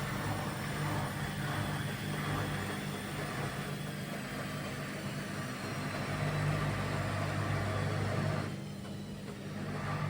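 Indesit Innex washing machine on its spin cycle, making a loud steady drone and rumble, the abnormal spin noise the machine has developed. The sound eases briefly near the end.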